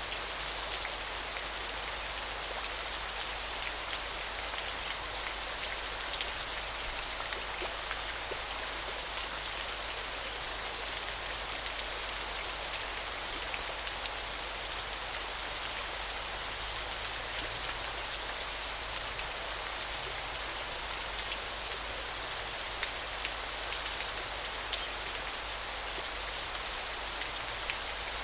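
Steady rushing of flowing river water. A high-pitched buzzing joins for several seconds early on, and short high buzzes repeat every couple of seconds in the second half.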